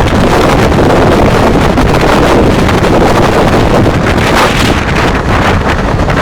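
Fast train running at speed, a steady loud rush and rumble heavily buffeted by wind on the microphone.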